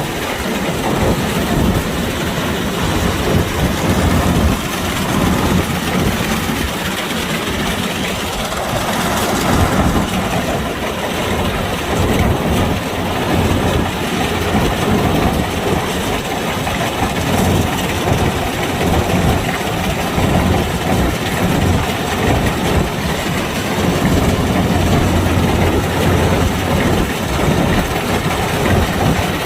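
Kubota DC-105X rice combine harvester running steadily, its diesel engine and threshing machinery giving a continuous, even drone with no change in speed.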